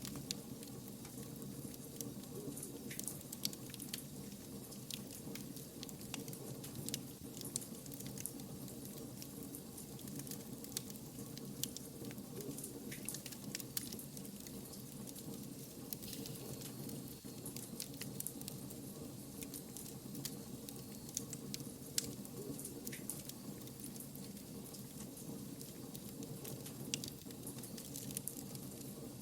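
Wood fire burning steadily, with a continuous low hiss and many small sharp crackles and pops scattered throughout.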